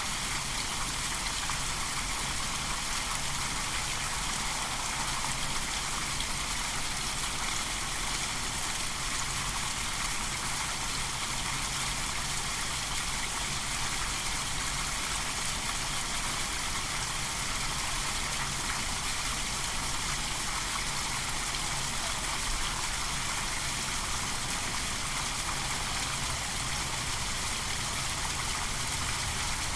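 Steady running water of a stream, an even rushing and trickling without pauses.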